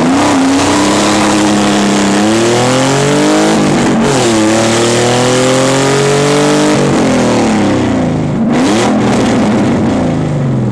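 Naturally aspirated Nissan 300ZX (Z32) 3.0-litre V6 running with no exhaust, loud, accelerating through the gears: the engine pitch climbs, drops at a shift about four seconds in, climbs again, then falls away over the last few seconds.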